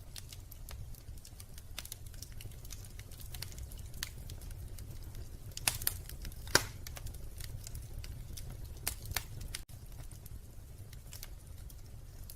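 Wood fire in a fireplace crackling, with irregular small snaps over a steady low rumble and a few louder pops about halfway through.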